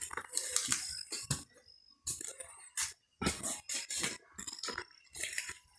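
Bonfire crackling and popping, with irregular sharp snaps from the burning wood and a brief lull about halfway through.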